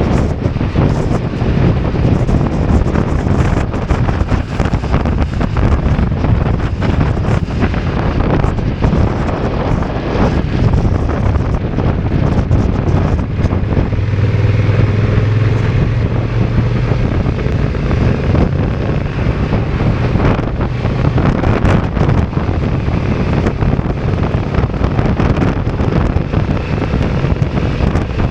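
Strong wind buffeting the microphone over a Honda NT1100's parallel-twin engine running at road speed. From about halfway through, a steady low engine hum comes through more clearly for a few seconds.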